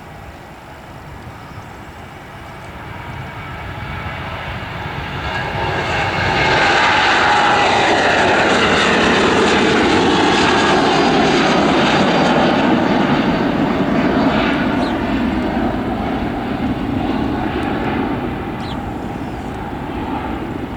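Jet airliner passing close by: its engine noise builds over a few seconds, is loudest for about six seconds with a falling whine, then slowly fades.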